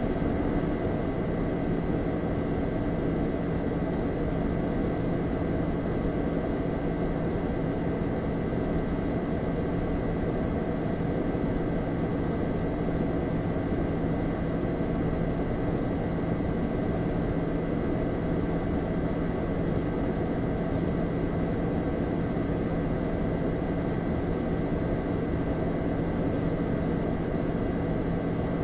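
Computer humming steadily: a constant fan whoosh with a low electrical hum and a few faint steady whining tones above it.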